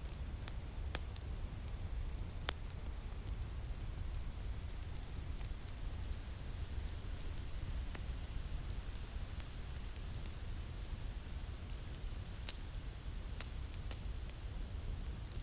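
Winter wind ambience as a steady low rumble, with a crackling wood fire giving scattered sharp pops and snaps, the strongest about two and a half seconds in and twice near the end.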